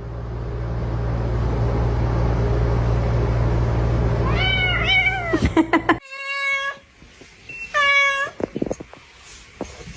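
Domestic cat meowing: two short rising-and-falling meows about four and a half seconds in, then two longer, level meows near six and eight seconds. A steady low rumbling noise runs under the first six seconds and cuts off suddenly.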